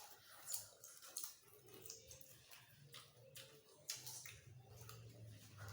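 Faint crunching of potato chips being bitten and chewed, a scattering of short crisp crackles.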